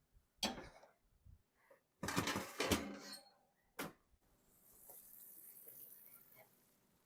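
Kitchen clatter as a hot baking dish comes out of the oven: a few knocks and scrapes of the dish and oven, the loudest bunched in the middle, then a soft hiss for a couple of seconds.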